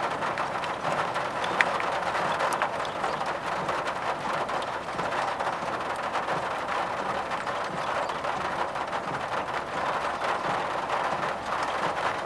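Rain pattering on a car's roof and windshield over steady road noise, heard from inside the moving car, with many small drop clicks.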